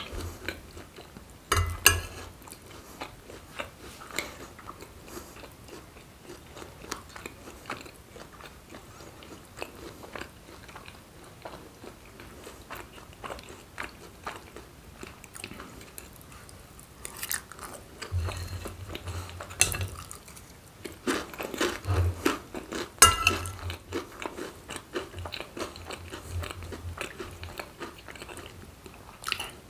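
Close-miked chewing and wet mouth sounds of someone eating macaroni and cheese and steak, with many small clicks and a few louder bursts of chewing after the middle.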